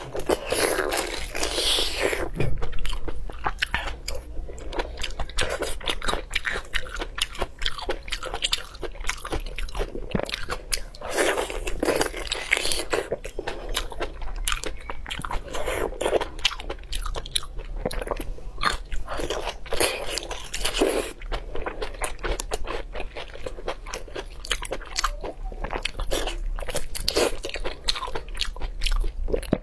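Close-miked eating sounds of a person biting and chewing spicy braised pork large intestine, with many quick mouth clicks and snaps.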